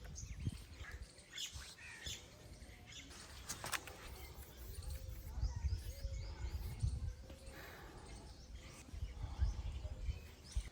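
Birds chirping in short scattered calls over a low, uneven rumble, with one sharp click about three and a half seconds in.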